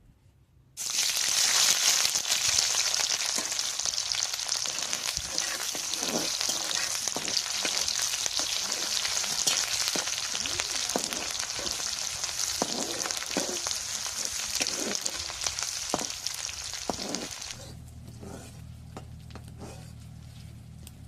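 Food sizzling loudly in hot oil in a cooking pan, starting suddenly as it goes into the oil, with repeated stirring strokes through the frying. The sizzle stops abruptly near the end, leaving a faint low hum.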